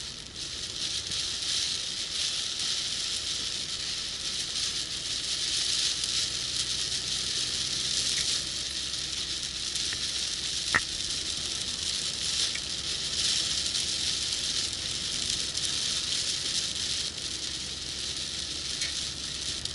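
Heavy rain on a moving car: a steady, surging hiss of rain and wet road, with one sharp click near the middle.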